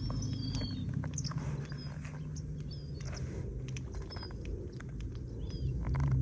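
Birds giving short, high chirps and peeps in quick succession, many with a slight fall in pitch, over a steady low hum and scattered light taps.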